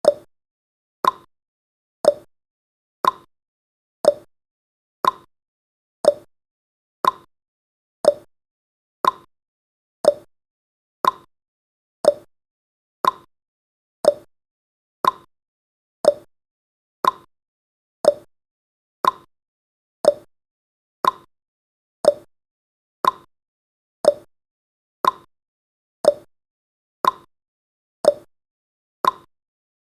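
Clock-tick sound effect ticking once a second, the ticks alternating between a lower and a higher pitch like a tick-tock.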